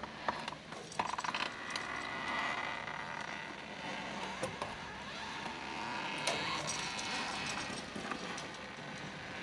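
Metal rigging clinking and rattling as a stuck tractor is pulled out, with a quick run of clicks about a second in.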